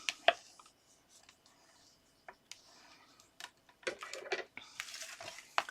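Card stock being handled: a few light clicks and taps, then from about four seconds in a dry rubbing and scraping as the fold is burnished flat.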